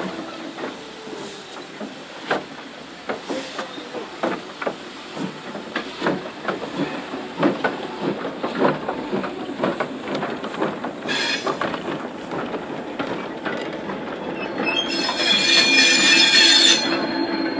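Steam train moving slowly: its wheels knock irregularly over the rail joints above a steady low drone. Near the end comes a loud high squeal mixed with hiss, lasting about two seconds.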